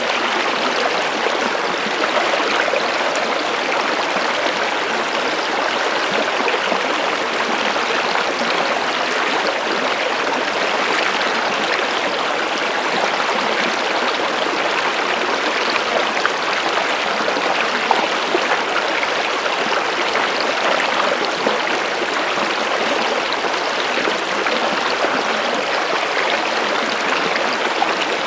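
Stream water flowing steadily: an even rushing with many small splashes, unchanging throughout.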